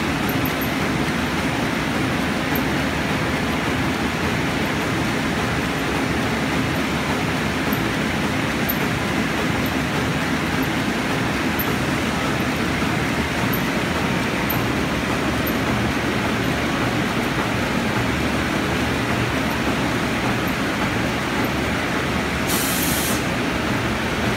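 Paper cross-cutting machine running, a steady mechanical noise without a clear beat, with a brief high hiss near the end.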